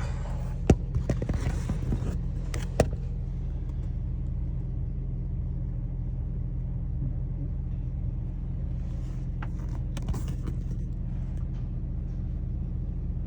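A steady low engine hum, with a few sharp clicks in the first three seconds.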